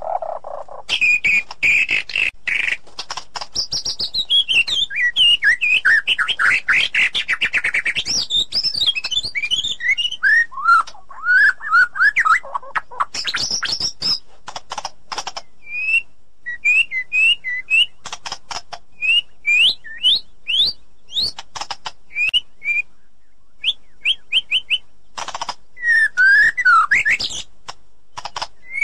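White-rumped shama singing a long, varied song: fast runs of rising and falling whistled notes, then a series of short upswept whistles, with many sharp clicks mixed in.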